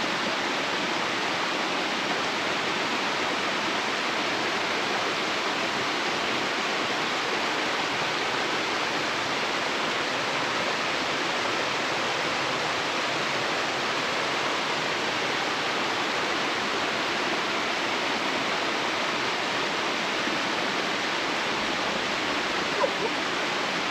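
Steady rush of a creek cascade, water pouring down the rocks of the falls, which are running high after recent rain.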